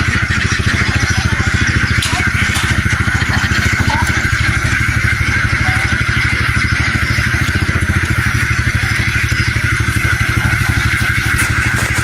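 An engine running steadily under load, with a fast, even firing beat and a steady higher hiss above it.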